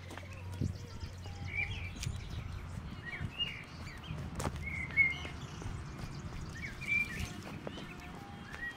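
Small birds chirping and calling, with short chirps and brief whistled notes scattered throughout. A few sharp clicks come in between, over a low steady rumble.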